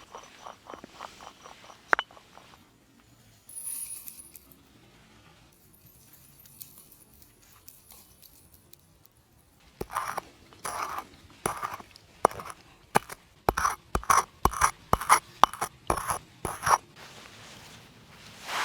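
Salt and pepper being ground into a bowl of tzatziki: a hand spice mill twisted in a quick run of short crunching strokes, two or three a second, after a few light clinks at the start.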